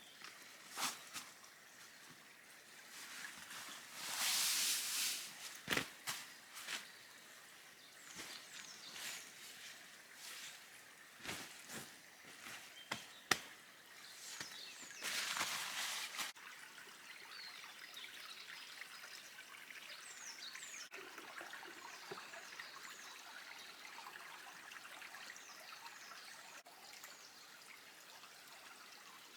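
Camp gear being handled, with a few sharp knocks and two short bursts of pouring or trickling water. In the later half, small birds chirp over quiet woodland background.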